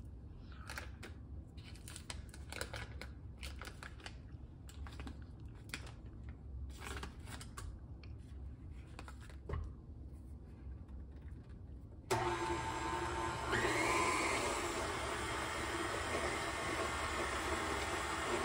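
Clicks and handling knocks, then about twelve seconds in a tilt-head stand mixer's motor switches on and runs steadily, beating butter in the bowl, with a brief rising whine as it gets going.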